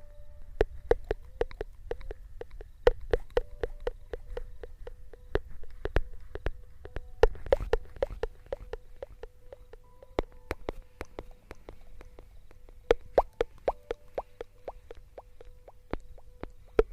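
Close-miked ASMR trigger sounds: soft, wet-sounding clicks and plops in an irregular run of about two to four a second, over a faint steady hum.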